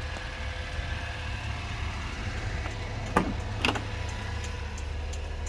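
Vehicle engine idling steadily with a low hum, and two sharp clicks about half a second apart just past the middle.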